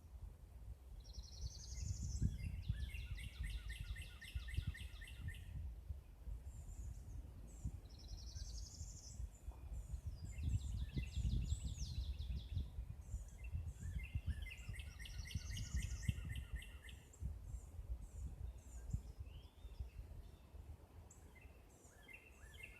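A songbird singing the same song about four times, each a few high slurred notes followed by a rapid trill. A low rumble runs underneath.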